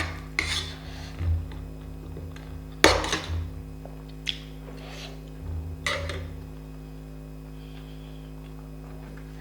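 Tableware clinking during a meal: several separate sharp knocks of utensils against a plate, the loudest about three seconds in, over a steady low hum.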